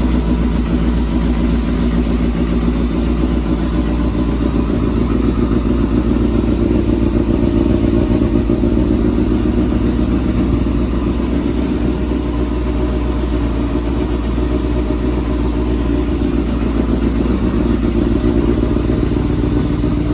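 Kawasaki Balius motorcycle's 250 cc inline-four engine running steadily.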